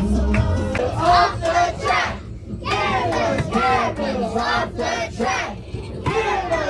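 A group of voices singing and shouting together in chorus, with a brief lull about two seconds in.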